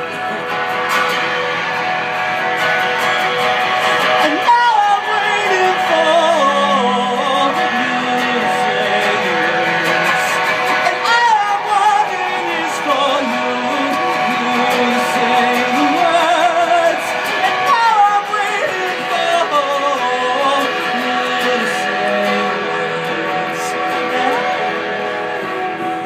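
Indie band playing live: guitars and sustained chords, with a wavering sung melody without clear words coming in about four seconds in.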